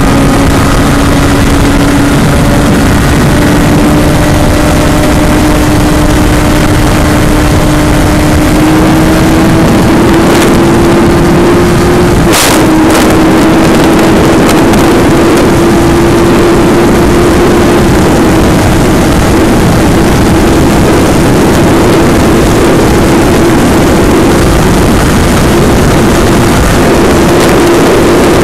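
Suzuki Hayabusa K9's 1340 cc inline-four with a Yoshimura exhaust, pulling hard at high speed in a top-speed run, its note climbing slowly and steadily, over loud wind rush. The note breaks briefly about twelve seconds in, then carries on climbing.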